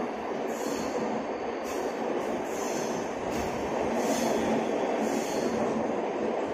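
Express train running at speed, heard from aboard a coach: a steady rushing rumble, with a faint high swish coming back about once a second.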